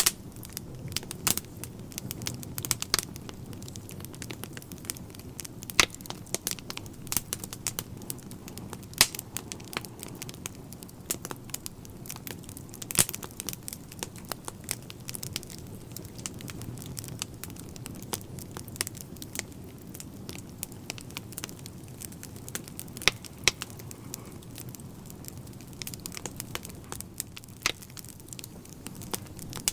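Wood fire crackling and popping in a fireplace: irregular sharp snaps over a steady low rumble of flames.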